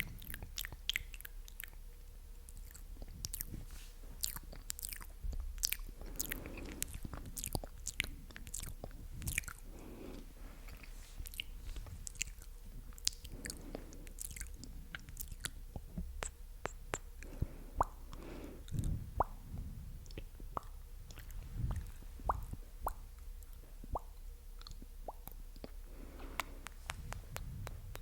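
Close-miked ASMR mouth sounds: a rapid, irregular run of sharp wet clicks and smacks from lips and tongue, thinning out in the second half, with a few soft breathy puffs.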